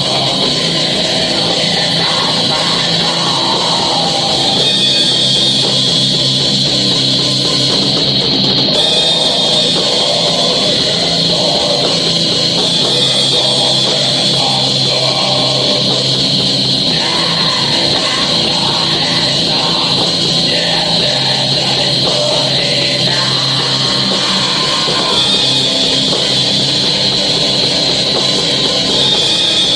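Heavy metal band rehearsing: distorted electric guitars and a drum kit playing continuously over a constant high cymbal and guitar wash.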